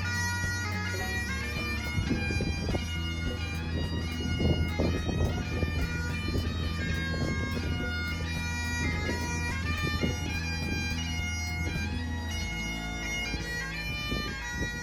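Bagpipe music: a skirling melody played over steady low drones, cutting off abruptly at the end.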